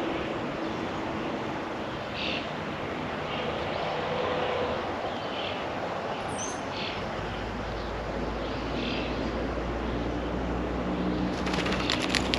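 Short, scattered chirps from songbirds over a steady hiss of distant road traffic, with a low hum joining about halfway. Near the end comes a quick run of sharp clicks.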